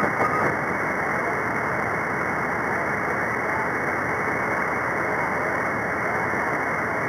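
Steady hiss of radio static from a single-sideband receiver tuned to the 11-metre CB free band, with no station transmitting. The noise is cut off sharply above about 2 kHz by the receiver's audio filter.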